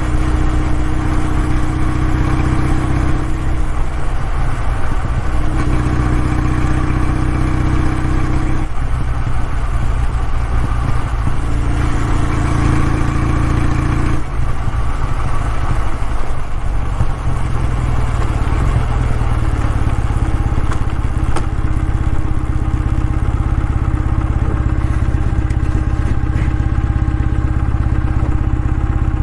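Kawasaki W650's air-cooled parallel-twin engine running, its exhaust note changing pitch several times in the first half and then holding steady.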